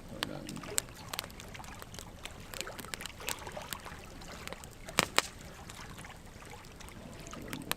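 Burning wood logs crackling and popping in irregular sharp snaps over a steady hiss, with two loud pops in quick succession about five seconds in.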